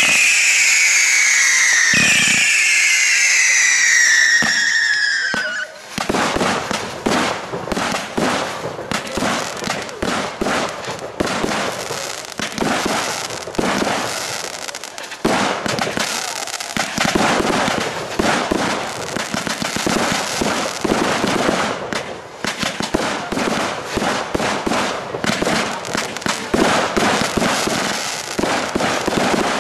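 Fireworks display: shrill firework whistles falling in pitch for the first few seconds, then a dense barrage of shells and cakes going off in rapid bangs and crackle.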